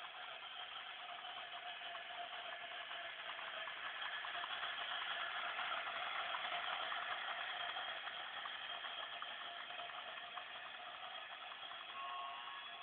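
Battery-powered toy train running on its track: a small motor whirring with a fast run of clicks from the wheels. It grows louder towards the middle and then fades as the train comes near and moves away.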